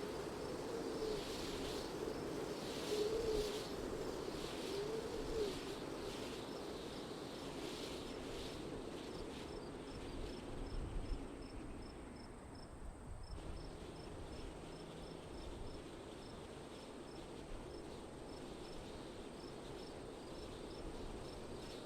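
Wind blowing in gusts with a low wavering whistle, the gusts easing after the first several seconds, while a cricket chirps steadily at an even pace.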